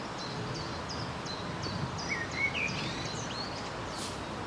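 A small songbird singing: a run of short high chirps, about three a second, then a few lower swooping notes around the middle, over steady outdoor background noise.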